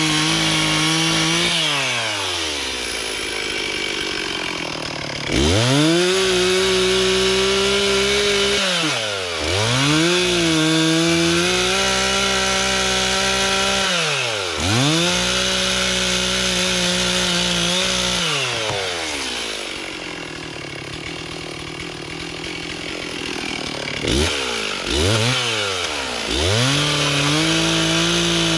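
Stihl two-stroke chainsaw revved to full throttle about six times, each time holding high for a few seconds as it cuts wood, then dropping back toward idle. There is a longer idle stretch a little after halfway.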